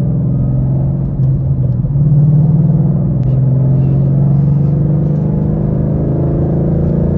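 2013 Mustang GT's 5.0 L V8 running steadily at moderate revs through a resonator-deleted exhaust that keeps the factory cats and H-pipe and has aftermarket axle-backs. A loud, low, even exhaust note whose pitch holds roughly level, with small dips about one and three seconds in.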